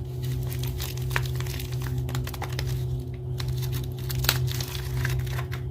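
Soap packaging being unwrapped: irregular crinkles, crackles and sharp snaps of wrapper paper or film, with the loudest snaps about a second in and about four seconds in. A steady low hum runs underneath.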